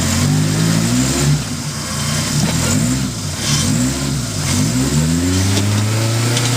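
Suzuki Samurai's engine revved up and down repeatedly in short throttle bursts while crawling over rock, then held at higher revs for a couple of seconds near the end.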